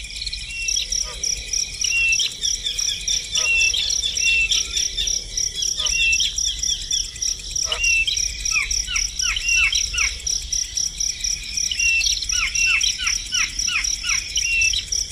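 Small birds calling: short falling chirps, some in quick runs of five or six, over a steady, high, pulsing insect trill that never stops.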